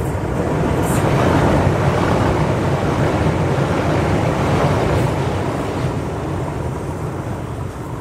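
Passenger train running across a steel truss railway bridge: a dense rumble of wheels on rails that swells within the first second, holds loud for several seconds while the carriages pass close by, then slowly fades.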